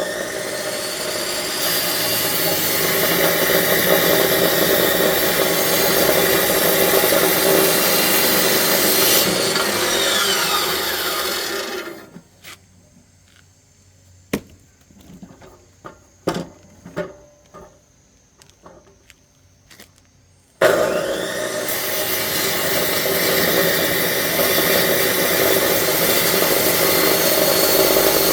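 Electric power saw cutting through firewood logs, running loud and steady, stopping about twelve seconds in. Then a few scattered knocks and clunks of wood being handled, and the saw starts again suddenly a little after twenty seconds in.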